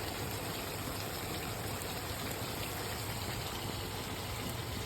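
Pot of chicken and dumplings boiling on the stove, a steady, even bubbling.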